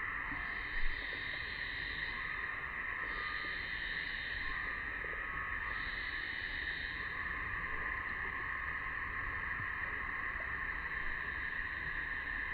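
Steady chorus of summer cicadas droning, with higher and lower layers swelling and fading every couple of seconds. A brief thump about a second in.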